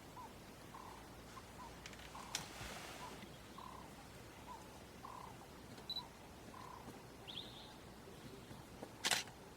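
Faint short animal calls repeating about every half second over quiet outdoor background, with a brief click a couple of seconds in and a loud sharp click near the end.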